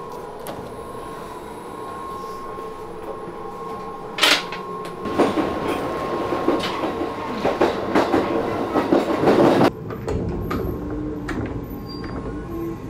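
Running noise of an E235-series electric train heard from inside a carriage. A sharp click comes about four seconds in, then a louder stretch of rattling wheel-and-rail noise that cuts off suddenly near ten seconds, giving way to a deeper rumble.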